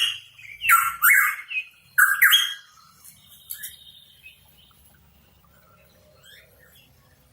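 Pitohui calling: a few loud, harsh calls in the first two and a half seconds, then only faint scattered chirps.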